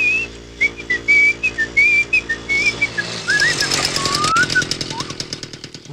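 A whistled tune of short gliding notes over a low steady drone. About halfway through, the drone stops, a fast ticking rhythm comes in, and the whistled line drops lower.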